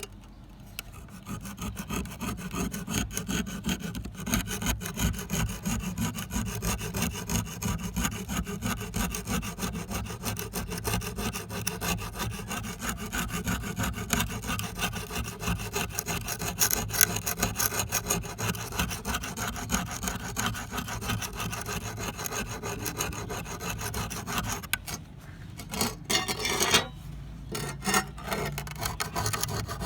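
Rapid, steady back-and-forth rubbing strokes of abrasive hand work on a tool. The strokes pause briefly near the end, then resume.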